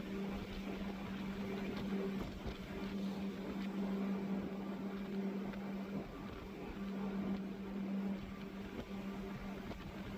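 Boat engines running steadily under way: a constant droning hum over a rushing wash of noise, the hum briefly dropping out about six seconds in.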